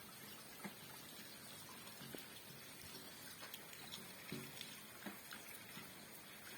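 Rain falling: a faint, steady patter with scattered individual drops landing.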